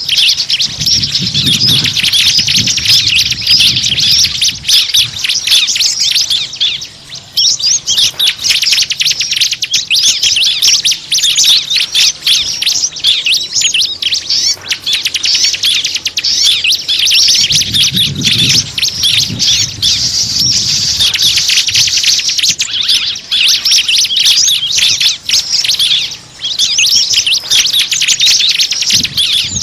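Dense, rapid high-pitched chirping of many small birds at once: a bird-lure (pikat) recording made to draw small birds in. Brief lulls come twice, and low rumbling sounds underneath twice.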